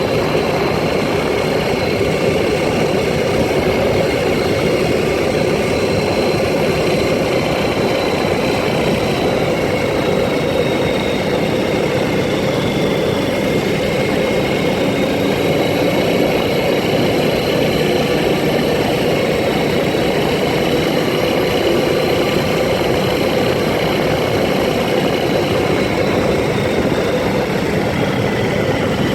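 ATV engine running steadily under way, with the pitch drifting only slightly.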